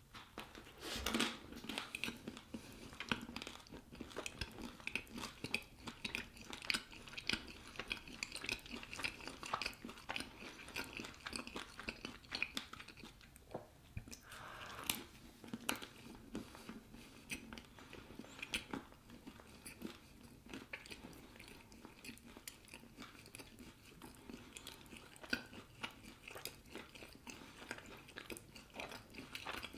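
A person chewing a bite of crusty baguette sandwich with Stilton and fig jam, with irregular crunches as the bread is bitten and chewed.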